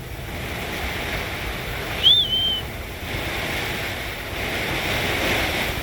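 Squall wind of about 60 mph and hard rain on an anchored sailboat: a steady rushing noise with wind buffeting the microphone. About two seconds in, a brief high whistle rises and then holds.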